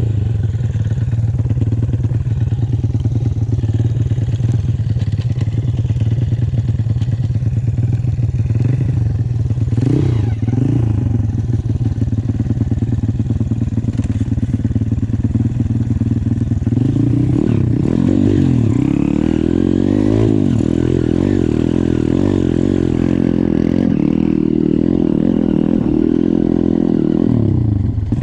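YCF 150 pit bike's four-stroke engine running at low, steady revs, with a short throttle blip about ten seconds in. From about seventeen seconds on it revs up and down repeatedly.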